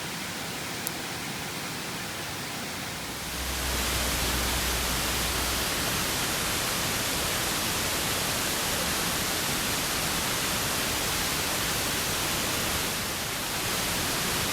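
A steady rushing hiss with no distinct events, stepping up in loudness about three seconds in; a single short click just before one second.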